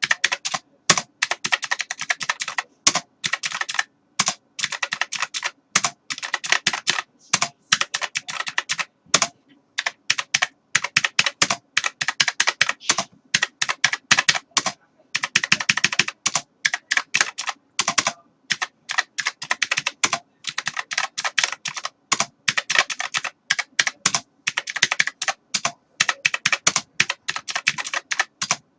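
Continuous typing on a computer keyboard: rapid, irregular key clicks in quick runs, broken by short pauses of under a second.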